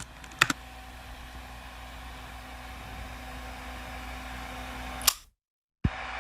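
Fans running steadily: an even hiss with a faint low hum, getting slightly louder. A couple of clicks near the start and a sharp click about five seconds in, after which the sound cuts off abruptly, with one more click near the end.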